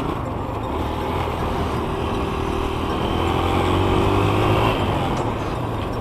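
Dirt bike engine running on the throttle, its note swelling to a peak about four and a half seconds in, then easing off.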